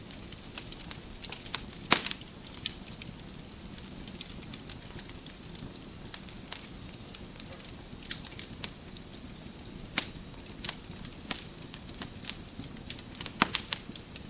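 Wood fire burning in a fireplace: a low steady rumble of flames with scattered crackles and pops from the logs. The loudest pop comes about two seconds in, and a quick run of pops near the end.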